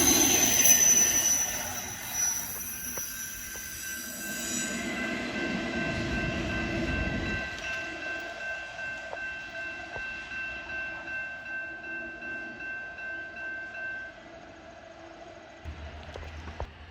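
Freight train rolling past with its wheels squealing on the rails, loud at first and then fading. The cars roll on with a steady rhythmic clatter and a thin high squeal, which drop away about three-quarters of the way through.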